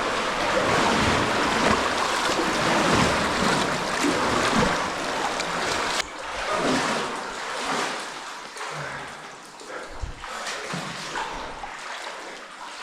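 Water splashing and sloshing as people move through deep water in a spring-fed cave stream. Louder for the first half, dropping off suddenly about six seconds in.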